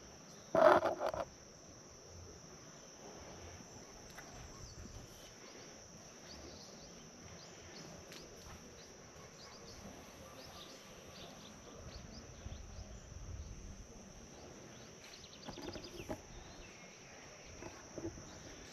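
Steady high-pitched chorus of insects, typical of crickets, with a single brief louder sound about half a second in.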